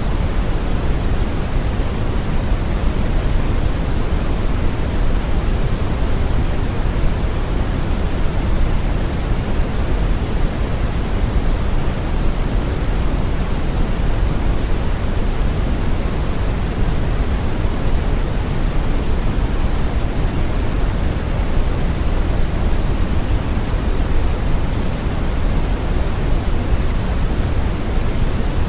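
Brown noise: a steady, even deep rushing hiss, strongest in the bass and falling off toward the treble, with no change in level.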